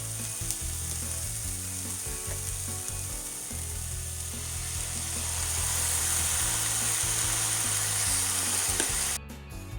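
Daikon leaves and peel sizzling in sesame oil and mentsuyu in a frying pan, with a few light spatula ticks. The sizzle grows louder about halfway through and cuts off abruptly near the end. Background music plays underneath.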